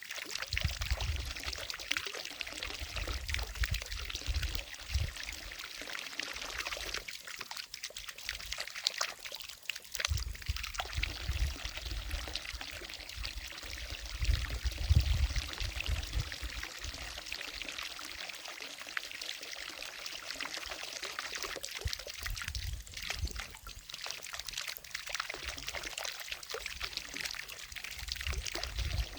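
Water from a fountain falling and splashing steadily into a lake, with low rumbling that comes and goes underneath.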